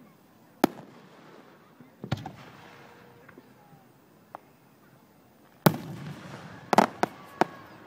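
Aerial fireworks shells bursting: about six sharp bangs spaced unevenly, the loudest about two-thirds of the way through and followed by a short rumble, then a quick run of three more near the end.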